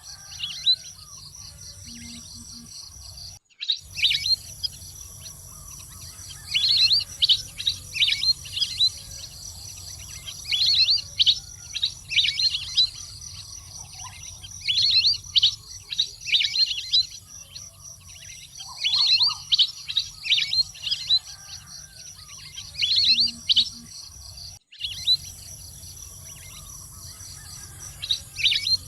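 Wild duck calls: clusters of quick, high whistled chirps lasting a second or two, repeating every three to four seconds, over a steady high drone in the background.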